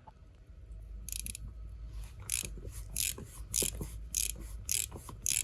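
Hand ratchet wrench working fasteners, with a run of short, quick ratcheting strokes, about two or three a second, starting about a second in.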